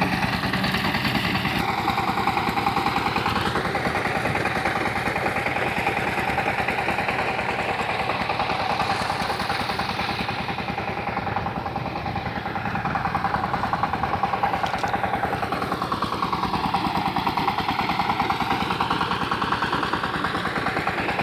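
Power tiller engine running steadily with a fast, even chugging beat, its tone sweeping slowly down and back up a few times.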